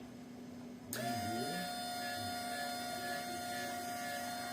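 DTF printer running, a steady machine hum made of several fixed tones that comes in suddenly about a second in.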